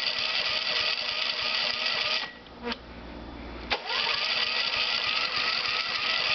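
John Deere riding mower's starter cranking the engine in two tries without it catching. The first try stops a little past two seconds in, and the second begins with a click near the middle.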